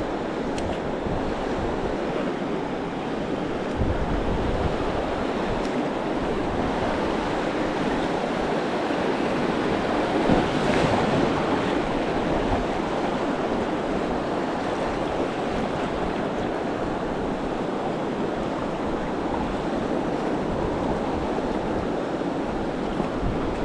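River water rushing through rapids, a steady noise that swells briefly about ten seconds in, with wind buffeting the microphone.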